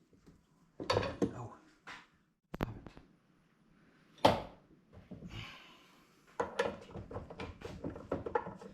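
Hand ratchet and socket turning the nut on a hydraulic cylinder rod clamped in a vise, using the nut to press the piston back onto the rod: scattered metal clicks and knocks, one loud knock about four seconds in, and a quick run of clicks near the end.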